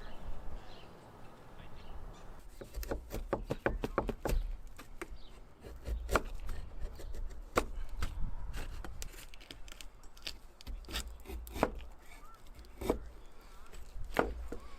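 Irregular sharp wooden knocks and cracks from hand work on an oak axe handle: a quick run of strikes, then single knocks a second or so apart.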